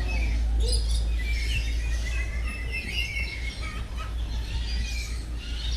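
Many small birds chirping and calling over one another in an aviary, short repeated chirps throughout, over a steady low rumble.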